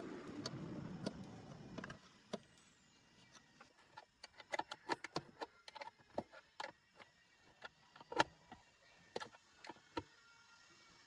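Irregular sharp clicks and knocks of hand work on car parts, after a rush of noise that stops about two seconds in.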